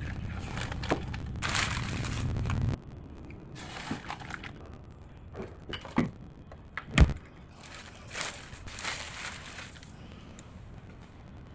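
Household handling sounds: scattered knocks and clicks with short rustling noises, and one loud thump about seven seconds in. A low rumble underneath cuts off suddenly early on.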